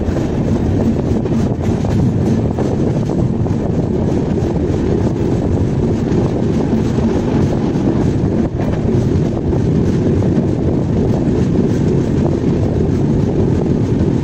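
Passenger train running: a steady, loud rumble of wheels on the rails, with no clear clickety-clack beat.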